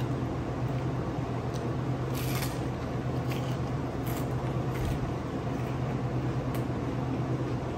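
Close-up chewing of french fries: a few short, crisp crunches, spread over several seconds, on top of a steady low room hum.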